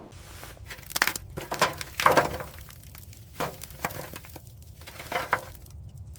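Irregular sharp knocks, cracks and clinks of hard objects, the loudest about one and two seconds in, with a few lighter ones later.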